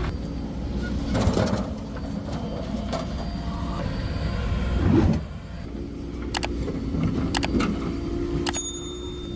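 Heavy diesel machinery engine running steadily, swelling louder briefly about a second in and again around five seconds in, with a few sharp clicks in the second half.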